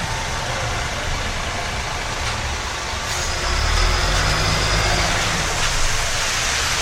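Street traffic noise with a heavy road vehicle's engine running close by; the low engine rumble grows louder about three and a half seconds in, over a steady hiss of street noise.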